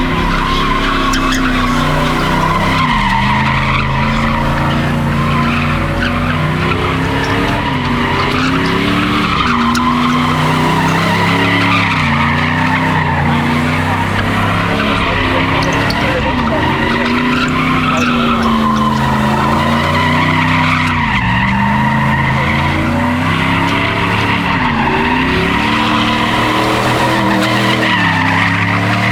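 A car engine revving hard with its tyres squealing and skidding throughout, the engine pitch rising and falling every couple of seconds, as in a car doing donuts.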